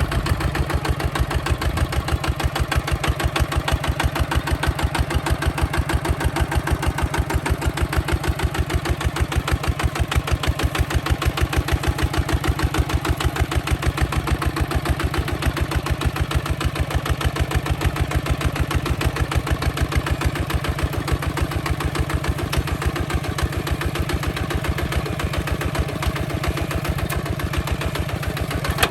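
Hinota HG Gold 155 DI walking tractor's single-cylinder diesel engine running steadily, with a rapid, even chugging of separate firing pulses.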